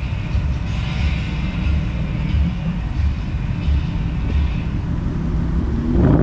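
Car engine running at low speed as the car drives by, a low uneven rumble that swells louder near the end.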